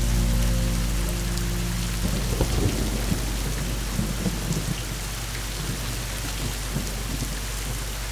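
Steady rain falling, with a roll of thunder that starts about two seconds in and rumbles and crackles for a few seconds before fading back under the rain.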